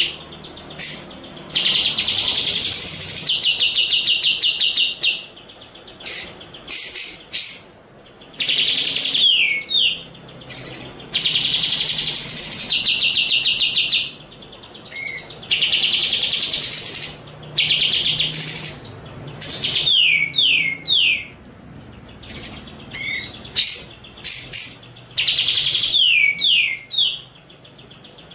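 Eurasian tree sparrow (burung gereja) singing in the Cililin 'kapas tembak' style, recorded as a masteran for training competition songbirds. Long rapid trills alternate with quick falling whistled notes, separated by short pauses.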